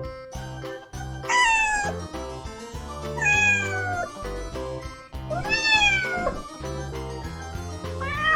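Domestic cat meowing three times, each meow about a second long and falling in pitch, with a fourth meow starting near the end. Background music with a steady beat plays underneath.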